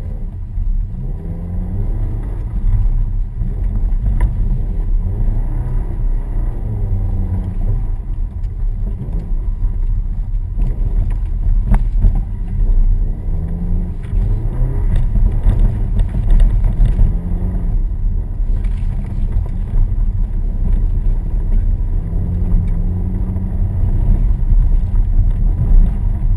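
Subaru Impreza's flat-four engine heard from inside the cabin, revving up and dropping back again and again as the car is driven hard through a snowy cone course, over a steady low rumble of road and snow noise.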